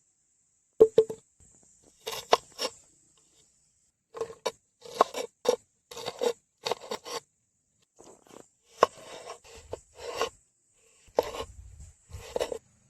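Irregular scraping and rasping strokes, about a dozen short sharp ones in uneven clusters, with a faint steady high hiss between them.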